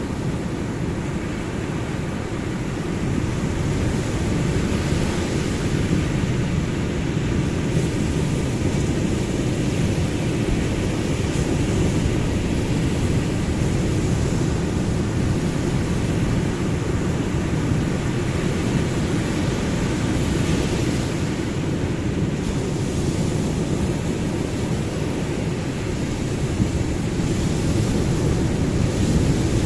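Ocean surf: waves breaking and washing ashore in a steady low rumble that swells and eases slightly over the seconds.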